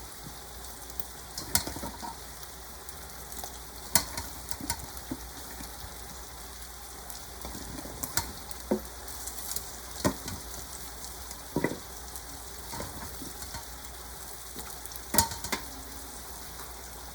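Seasoned chicken sizzling in a pot with a steady hiss. A spoon is stirred through it, knocking and scraping against the pot every few seconds.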